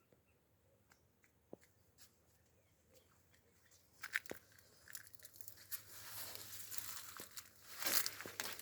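Rustling and crackling that starts about four seconds in and grows busier and louder, after a few faint scattered clicks.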